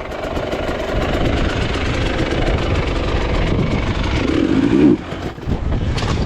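Enduro dirt bike engine running hard under load, revving unevenly as the bike works over rocks. The engine briefly drops away about five seconds in, then picks up again.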